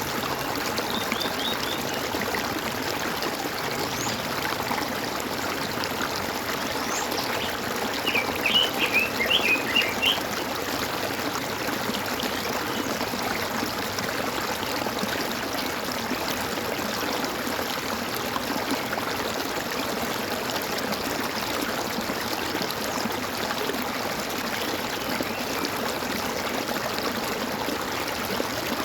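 Running water gurgling steadily, with a bird singing a quick cluster of chirps about eight seconds in and a few fainter chirps earlier.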